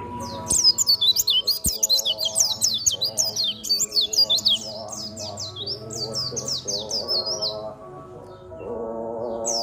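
White-eye (pleci) singing a fast, twittering song of rapid high chirps, with a pause near the end before it starts again. Background music plays underneath.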